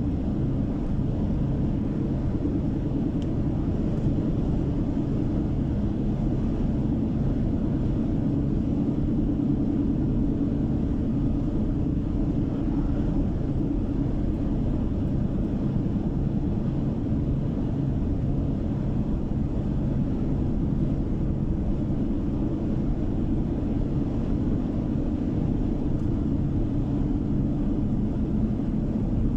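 Steady drone of a car driving at an even pace, heard from inside the cabin: low-pitched tyre and engine noise that stays level throughout.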